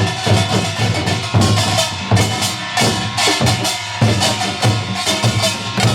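A Korean pungmul percussion group playing together: janggu hourglass drums beat a fast, even rhythm over the ringing of metal gongs.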